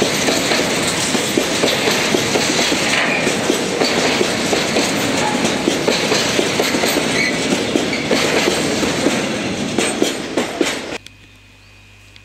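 Tank wagons of a freight train rolling past at close range: a steady rumble with quick, irregular clacks of the wheels on the rails. The sound cuts off suddenly about eleven seconds in, leaving only a faint steady hum.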